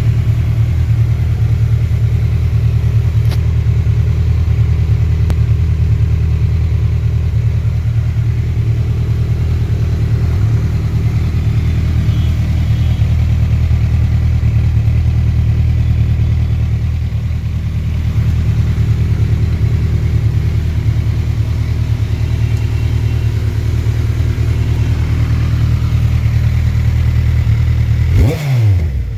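Kawasaki Ninja 1000SX inline-four, fitted with Lextek headers and stock mufflers, idling steadily through the exhaust. Near the end a quick blip of the throttle sends the revs up and back down.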